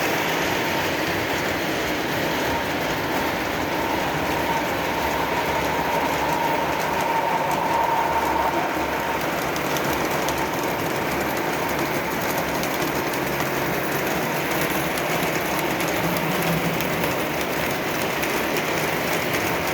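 Lionel O-gauge Santa Fe Warbonnet diesel train set from 1991 running steadily around three-rail track: a continuous rumble and clatter of metal wheels on the rails. A faint steady whine comes in about four seconds in and fades out about five seconds later.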